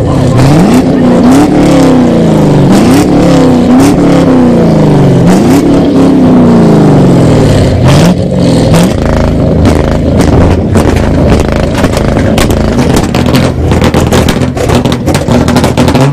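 Car engine revved hard again and again, its pitch climbing and dropping several times in quick succession. For the second half it runs rougher and more evenly, with sharp crackles from the exhaust throughout.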